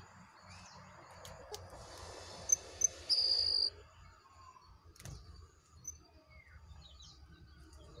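A bird calling: two short sharp high chirps, then one steady high whistled note held for about half a second, over a soft hiss. A single click about five seconds in, followed by faint scattered chirps.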